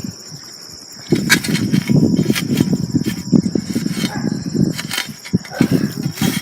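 Shovel scraping and scooping soil to fill in a small hole, starting about a second in, with crickets chirping steadily throughout.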